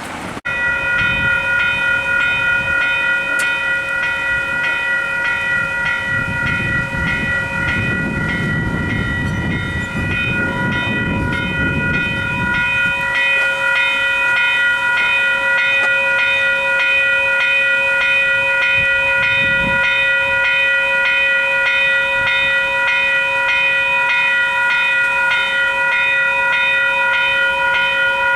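Western Cullen Hayes E-Bell electronic level-crossing bells start ringing about half a second in and keep ringing steadily, a rapid repeated electronic strike on their quiet, slower-ring setting: the crossing has activated for an approaching train. A low rumble swells and fades in the middle.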